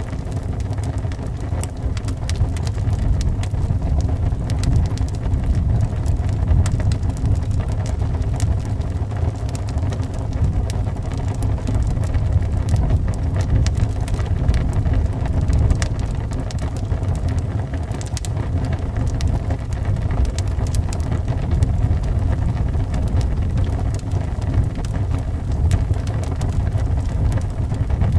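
Wood fire crackling with scattered small pops and snaps, over a steady low rumble of wind howling around the house.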